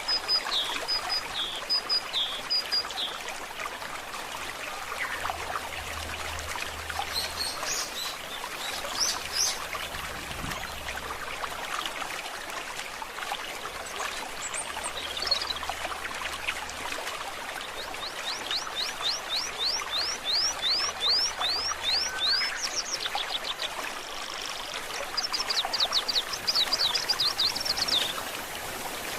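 Stream water trickling and babbling steadily, with songbirds calling over it: a short series of repeated high notes near the start, a few scattered chirps, and later two runs of quick sweeping notes, about three a second.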